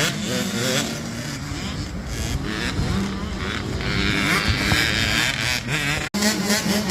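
Motocross dirt bike engines running and revving up and down on the track. The sound drops out for an instant about six seconds in, followed by a steadier engine note.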